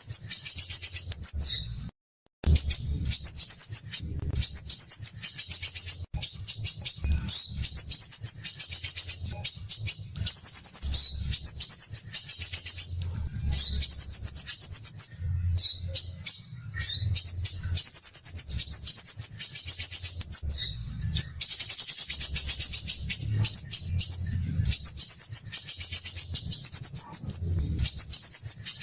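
Crimson sunbird (sepah raja) singing its 'besetan' song: rough, rapid, tightly packed high trills, each phrase a second or two long, repeated almost without pause. There is a brief dropout about two seconds in, and a faint low rumble underneath.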